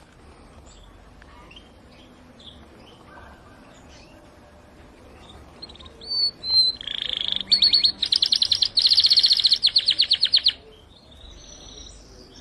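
Canary singing: scattered soft chirps, then about six seconds in a loud, high song phrase of rapid trills, about ten notes a second, which stops abruptly about four seconds later.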